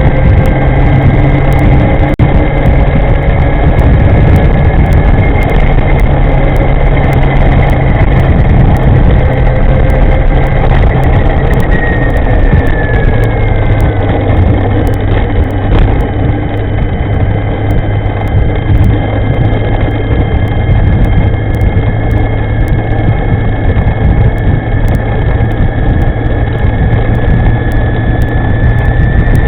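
E-moving electric scooter riding along: a steady, loud low rumble with thin high whining tones that drift slowly up and down in pitch.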